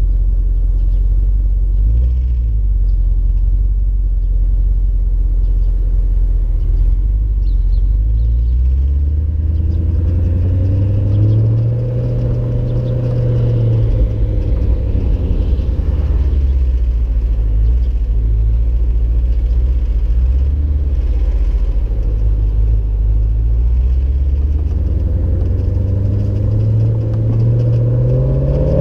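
Audi RS5's exhaust, fitted with a Supersprint non-resonated mid X-pipe and stock mufflers, giving a deep, steady rumble. The revs climb slowly about a third of the way in, ease off, and climb again near the end.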